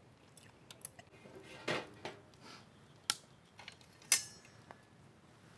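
Camp tableware and cookware being handled: a few light knocks and clicks, then one sharp, ringing clink about four seconds in.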